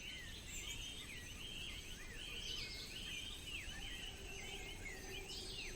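Faint forest ambience: many birds calling in short, repeated chirps that overlap one another, over a low, steady background hush.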